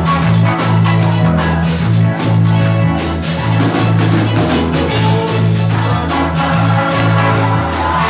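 Band music: a bass line stepping from note to note about every half second, under strummed guitar and drums.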